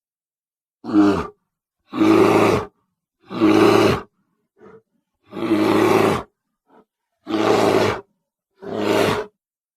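A series of six big-cat roars and growls, each under a second long, cut apart by complete silence, edited as creature sound effects for a winged jaguar-like monster.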